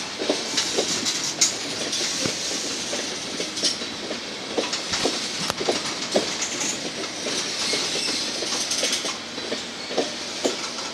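Freight cars of a mixed freight train rolling past, wheels clacking over the rail joints with a steady rumble and hiss, and irregular knocks several times a second.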